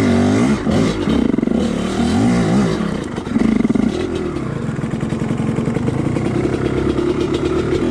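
Two-stroke dirt bike engine revving up and down in short blips for the first few seconds, then running more steadily at low revs.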